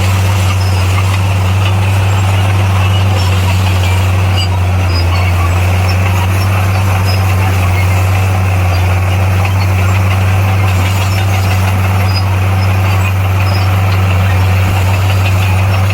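Komatsu bulldozer's diesel engine running at a steady speed, a loud even low drone with no revving or load changes.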